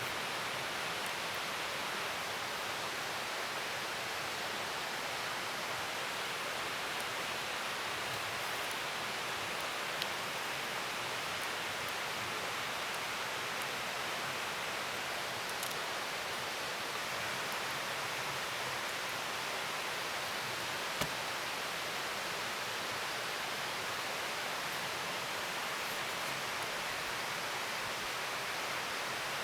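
Steady, even rushing noise, with a couple of faint clicks about ten and twenty seconds in.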